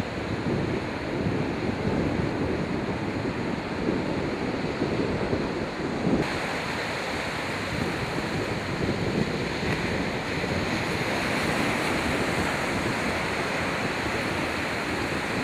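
Sea waves washing and wind buffeting the microphone, a steady rushing noise with no gull calls. About six seconds in the rush turns brighter and hissier.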